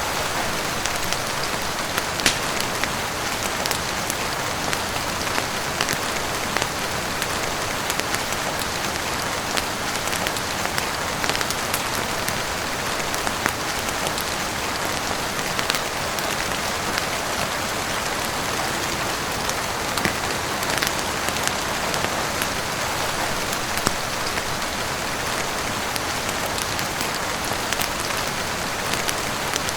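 Steady heavy rain falling on a roof and windows, with scattered sharp pops and clicks of a crackling wood fire mixed in.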